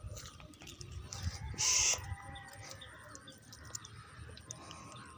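Birds calling, with one short, loud, harsh burst a little under two seconds in.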